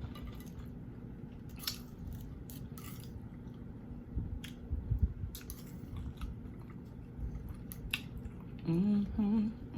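Eating sounds from fried chicken: scattered crisp clicks and wet mouth smacks, with a few louder low thumps about four to five seconds in. Near the end, a voice hums a wavering tune.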